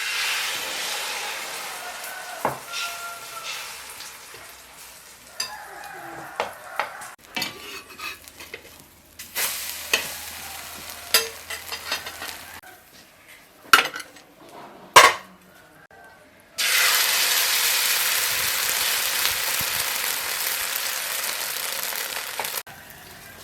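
Food frying in hot oil in a pan: a loud sizzle that starts suddenly and fades, with a utensil clicking and knocking against the pan. About seventeen seconds in, a second loud, even sizzle sets in for some six seconds and cuts off sharply.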